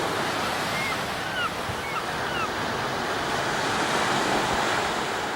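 Ocean surf washing steadily on a beach, with a few short high chirps about one to two and a half seconds in.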